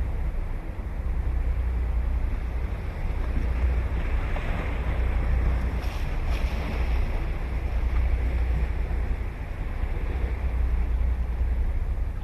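Ocean surf breaking and washing up the beach: a steady rush of water that swells about four to seven seconds in. Wind rumbles low on the microphone throughout.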